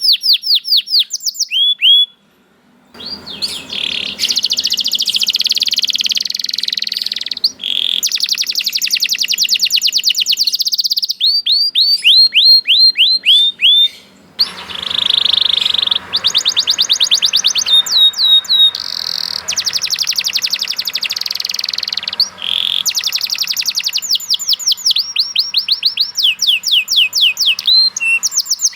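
Domestic canary singing a long, loud song of rapid trills and rolls, with runs of quick falling notes, broken by short pauses about two seconds in and near the middle.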